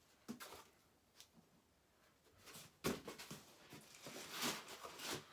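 Styrofoam packing being handled and pulled from a box: scattered soft rustles and creaks, with a sharp knock a little under three seconds in.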